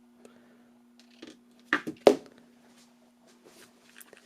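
Metal parts of a paintball marker being handled at a vise: a quick cluster of sharp knocks and clicks between about one and two seconds in, the last the loudest, over a faint steady hum.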